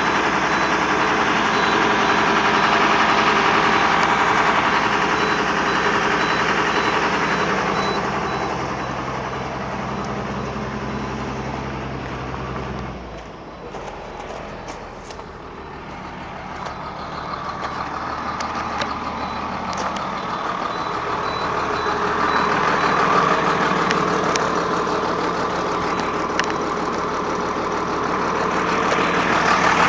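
Cummins diesel engine of a 1996 Ford Blue Bird school bus idling with a steady drone. About 13 seconds in, the low drone cuts out suddenly. Engine sound builds again from a few seconds later and is loudest near the end.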